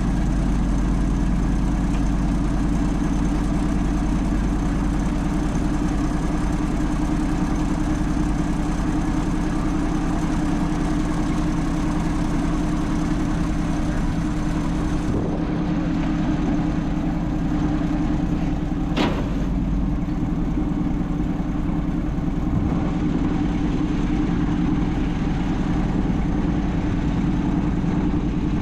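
A vehicle engine running steadily at an even speed, with a single sharp click about nineteen seconds in.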